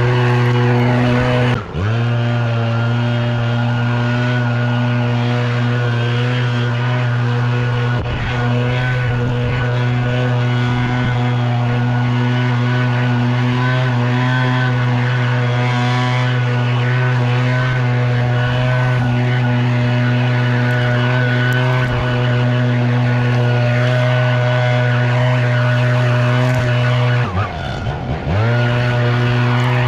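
Leaf blower running at a steady high speed, its pitch briefly dipping and recovering about two seconds in and twice more near the end.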